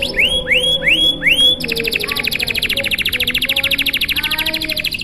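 Domestic canary singing: four slow upward-sweeping whistled notes, then, about a second and a half in, a long, very fast trill of rapidly repeated notes.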